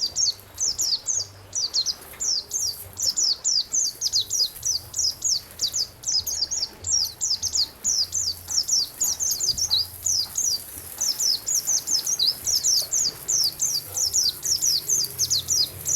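Songbird singing a fast, unbroken run of short, high, downward-sweeping notes, about five a second, with only a brief pause about halfway through.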